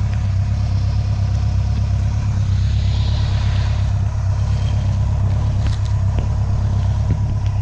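Kawasaki ZG1000 Concours inline-four engine idling steadily through its exhaust, a deep, even sound with no revving.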